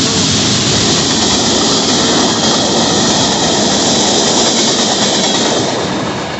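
Florida East Coast Railway freight train rolling past close by, a loud steady rush of steel wheels on rail that begins to fade near the end.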